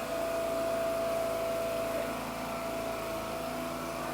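A machine engine running steadily, with a thin steady whine over it that fades after about two seconds.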